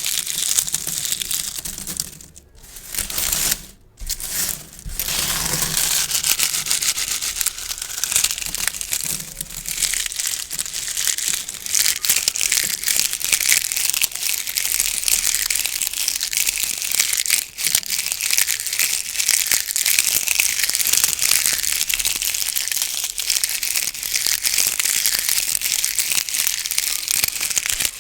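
Gift ribbon bows being handled and squeezed, giving a continuous crinkling with two short pauses in the first few seconds.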